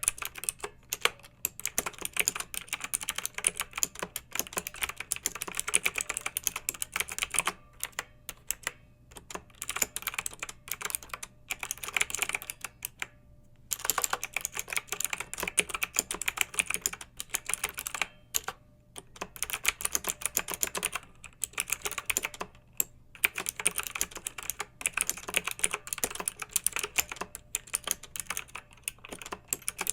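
Clicky mechanical keyboard typing: dense runs of fast keystrokes broken by short pauses.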